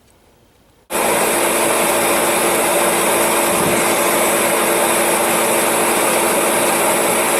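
Forced-air torpedo heater switched on about a second in, its motor and fan running with a loud, steady whirring rush.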